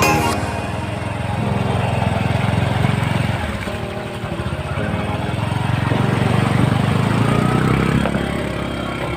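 A small engine running steadily, its level swelling and easing a little, with music faintly underneath at times.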